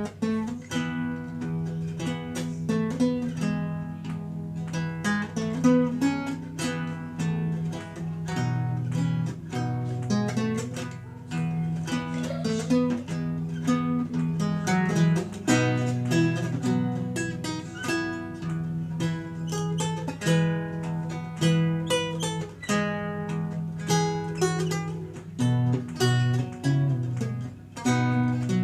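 Renaissance lute played solo: a continuous run of plucked notes over a lower bass line.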